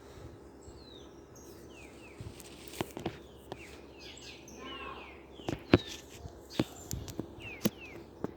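Small birds chirping in short falling notes over a faint steady hum, with scattered sharp clicks and knocks. The loudest knock comes a little before the six-second mark.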